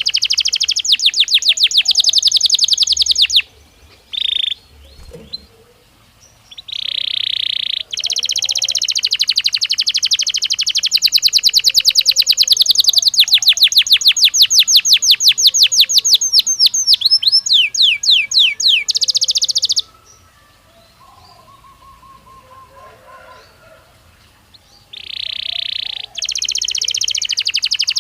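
Belgian canary singing in long rapid trills of repeated high notes, with a few seconds of near pause twice before the song starts again. The longest trill, partway through, speeds up and drops into lower swooping notes before it stops.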